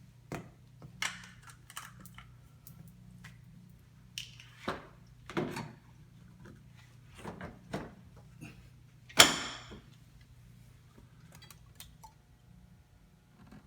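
Plastic clicks and knocks of a refrigerator water filter being taken out and fitted into its housing, with one loud knock about nine seconds in.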